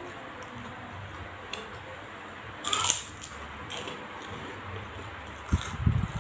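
Someone chewing a crisp fried opak cracker, with one short loud crunch about three seconds in and a few dull low thumps near the end.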